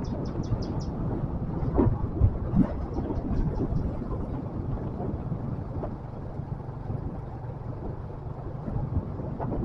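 Motorcycle running steadily on the move, with a low rumble and wind buffeting the microphone and a few thumps about two seconds in. Short runs of quick high chirps come at the start and again about three seconds in.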